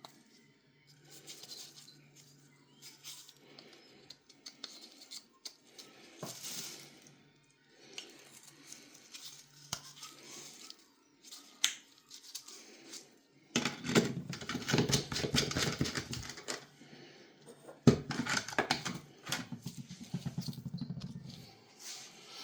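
Hands handling a plastic filter water bottle and its parts: small clicks and scrapes, with two louder stretches of rubbing and knocking in the second half.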